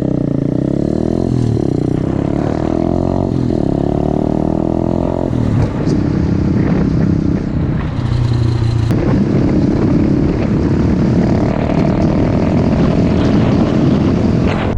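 Pit bike's small single-cylinder engine revving up and down, then running hard and steady from about five seconds in.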